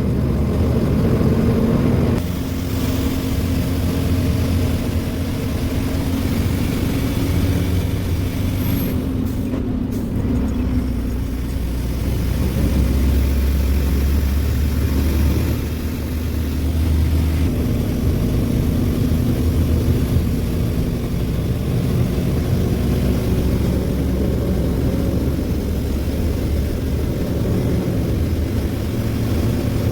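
Ashok Leyland 2528 tipper truck's diesel engine running as the truck is driven, its low engine note shifting in pitch a few times as speed and gears change.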